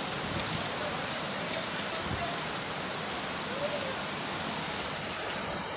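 Heavy rain pouring steadily onto hard surfaces: a dense hiss with many small drop ticks.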